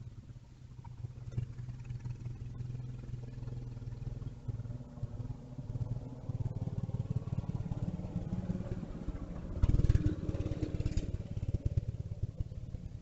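Mini bike engine running, growing louder and loudest about ten seconds in as it passes close, then easing off.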